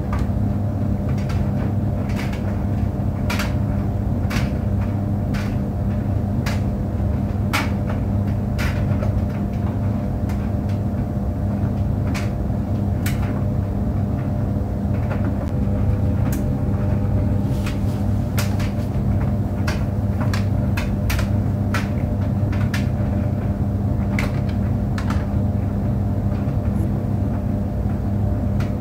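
Tumble clothes dryer running: a steady low hum and rumble, with light clicks and knocks at irregular moments throughout.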